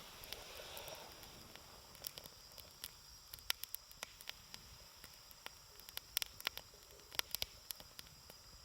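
Campfire burning, with wood crackling and popping in irregular sharp snaps, thickest in the middle of the stretch, over a faint steady hiss.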